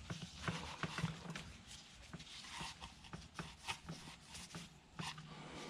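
Faint handling noises: scattered light clicks and rubbing as parts and tools are moved around on a workbench.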